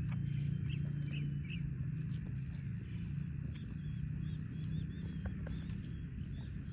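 Small birds chirping in short high notes, a few about a second in and then a quick series of them from about halfway on, over a steady low hum.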